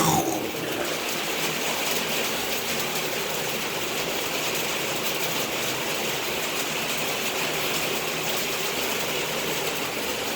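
Heavy rain falling on the roof directly overhead, a steady hiss with no let-up, after a brief knock right at the start.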